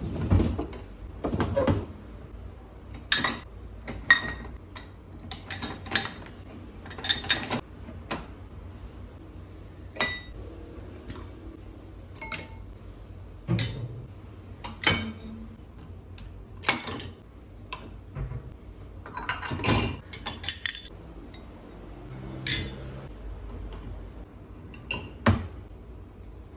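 Dishes and cutlery being handled: a string of separate clinks and knocks, about a dozen or more, as items are picked up and set down one after another.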